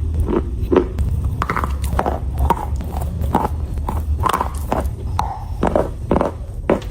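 Close-up chewing of chalk: crisp crunches about two a second, over a steady low hum.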